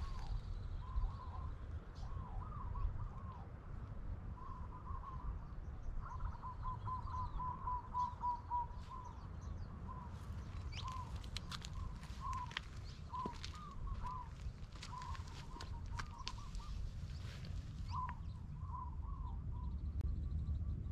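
A bird calling with short, repeated notes: a quick run about six to eight and a half seconds in, then single notes spaced a second or so apart, over a steady low rumble.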